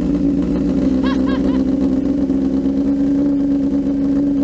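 Motorcycle engine idling at a steady, even pitch through an aftermarket exhaust being test-fitted, very loud.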